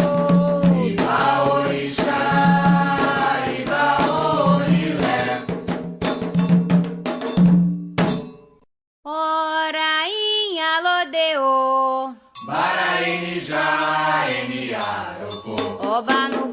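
Devotional chanting for Xangô: voices singing over a repeating drum beat. About eight seconds in, the sound breaks off abruptly. A single voice then sings for about three seconds without drums, and the singing and drumming return.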